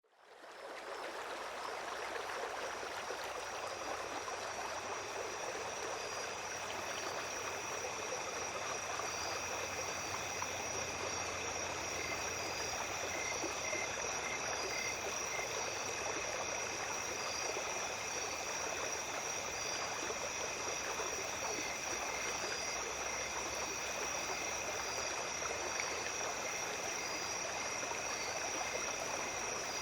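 A small stream babbling steadily, with night insects calling in a continuous high chorus over it and a few pulsing chirps. The sound fades in over the first second.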